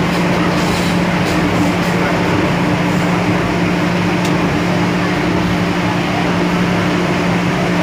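MTR M-Train electric multiple unit heard from inside the car while running at steady speed: a constant rumble of wheels on rail with a steady low hum from the train's equipment.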